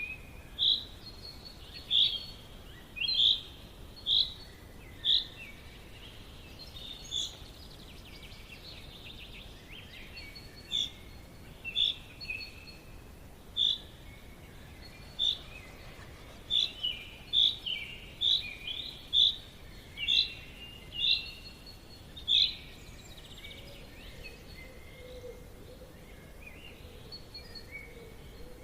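Forest birds chirping: short, sharp call notes repeated roughly once a second, sometimes in quick runs, over a steady background hiss. The calls stop a few seconds before the end.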